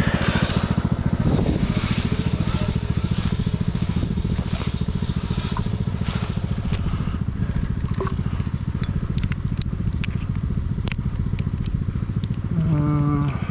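Husqvarna riding mower's engine idling low and steady, with scattered cracks and scrapes over it.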